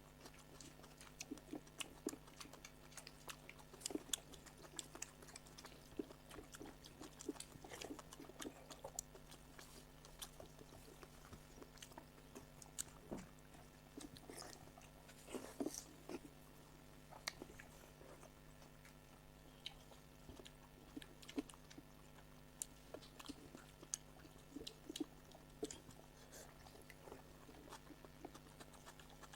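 People eating by hand and chewing, with many short wet clicks and smacks and the odd crunch, over a faint steady hum.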